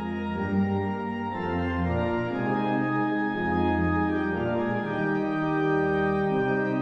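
Background music with sustained organ-like chords changing every second or two.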